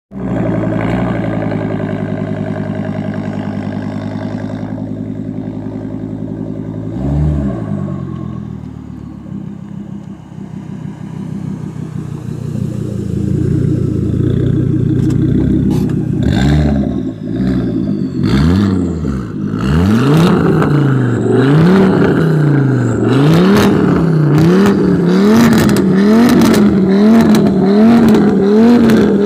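Volvo V70 turbo engine held at raised revs, then blipped once and let settle to a lower idle. It is then revved up and down repeatedly, about once every second and a half, with sharp clicks between the revs.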